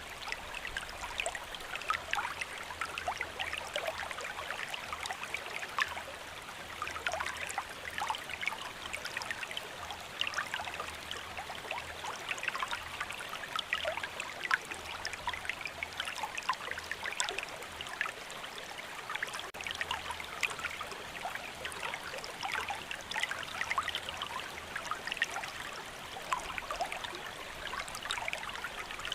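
Steady rain falling, a constant wash dotted with many small irregular drop ticks.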